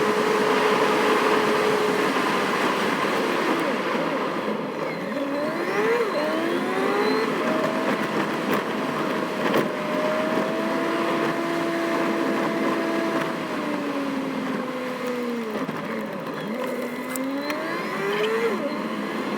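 Ute driving on a wet road, heard from inside the cab over a steady hiss of rain and tyre noise. The engine note climbs in steps as it accelerates through the gears, holds steady at cruise, drops as it slows, then climbs again near the end.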